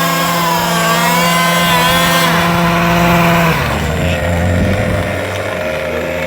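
Small two-stroke engine of a gas-powered RC car running fast with its pitch wavering, then dropping to a lower, steady speed about three and a half seconds in.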